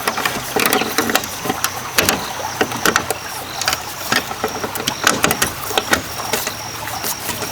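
Irregular clicks, taps and knocks of hand work on bamboo, coming several times a second with uneven spacing.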